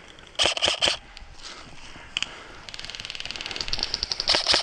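Airsoft rifle firing a long full-auto burst of fast, evenly spaced clicks that grows louder near the end. A few loud knocks come first, about half a second in.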